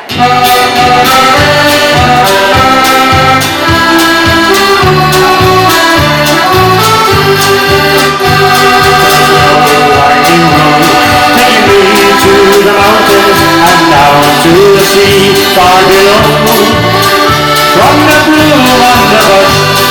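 Live band music led by an accordion, playing an instrumental introduction over a steady bass beat; it starts suddenly.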